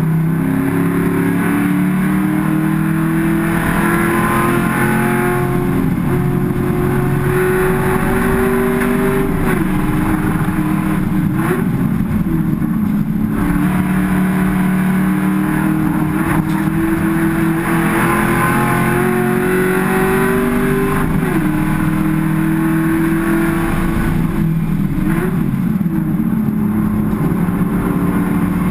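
Race car engine heard from inside the cockpit at racing speed, its revs climbing steadily then falling away several times as the driver changes gear, with a few quick rev jumps in between.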